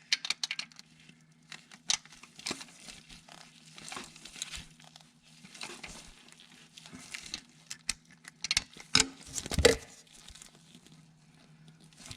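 Irregular clicks, scrapes and rustling from hands handling tools and parts in the engine valley, with a louder clunk about nine and a half seconds in.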